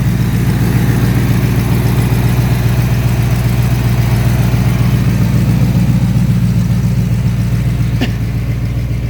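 Chevrolet 350 small-block V8 with a mild RV cam and a 625 Street Demon carburetor, idling steadily while it warms up after a cold start.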